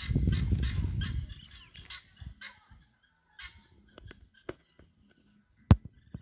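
A bird calling in a fast series of short, sharp notes, about three a second, that fades out after about two and a half seconds. A loud low rumble fills the first second, and a few sharp clicks follow later, the loudest about half a second before the end.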